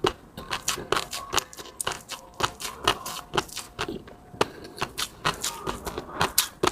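Close-miked eating sounds: wet chewing and lip smacks with many irregular sharp clicks, several a second.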